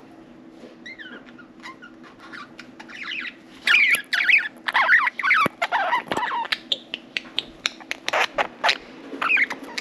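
Budgerigars chirping and chattering in quick, wavering calls, faint at first and much louder from about three and a half seconds in, mixed with many sharp clicks, over a steady low hum.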